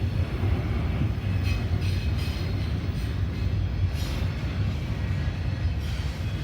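Freight train of autorack cars rolling past: a steady low rumble of steel wheels on rail, with a few faint clicks from the rail joints.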